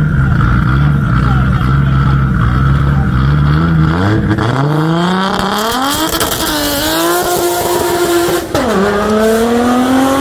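Nissan R32 Skyline's engine held at steady revs for about four seconds, then launching in a drag race, its revs climbing hard. It changes gear twice, with a slight dip in pitch about six seconds in and a sharper drop near the end, the note climbing again after each.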